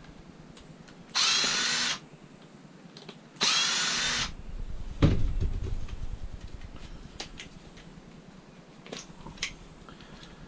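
Power drill-driver running in two short bursts of high whine, each well under a second, backing out the two screws that hold a fan motor. A dull clunk follows a second after the second burst, then a few light metallic clicks.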